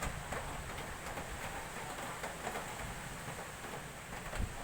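Strong wind blowing in gusts, buffeting the microphone with an uneven low rumble over a steady rushing noise.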